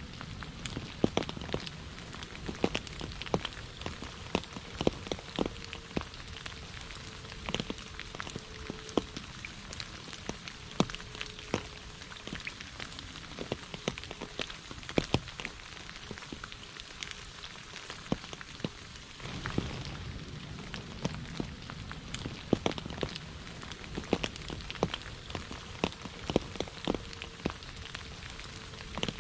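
Heavy rain falling steadily: a constant hiss overlaid with many sharp, separate drops striking close by.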